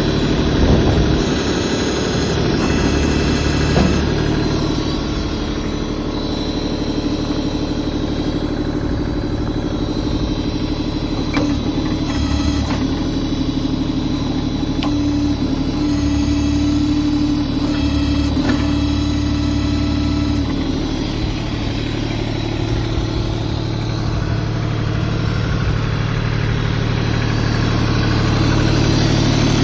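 LS XJ2025H compact tractor's diesel engine running steadily, its tone and load shifting at times, with a few faint clicks.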